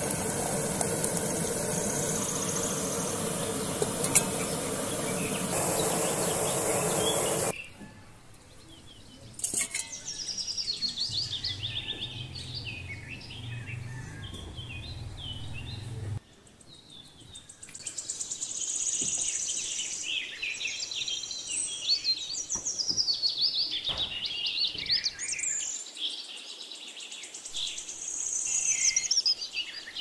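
A steady hiss that cuts off abruptly after about seven seconds, followed by birds chirping and singing, many short high calls overlapping.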